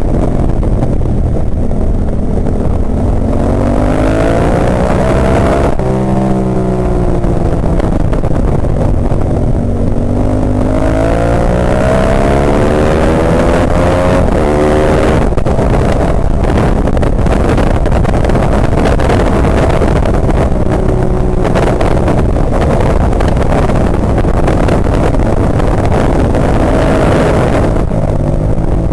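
Ducati 998's L-twin engine at racing speed, heard onboard over heavy wind rush. It revs up in rising pulls, drops away sharply at gear changes or braking, and pulls again, several times over.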